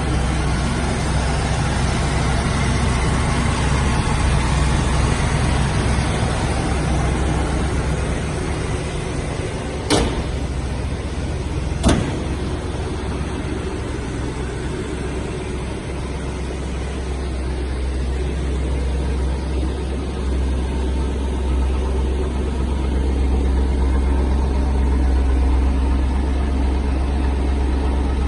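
1978 Pontiac Firebird engine idling steadily with a low rumble, with two sharp clicks about two seconds apart partway through.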